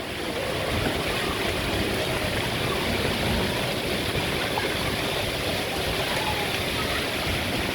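Steady rush of falling and flowing water, an even hiss without breaks.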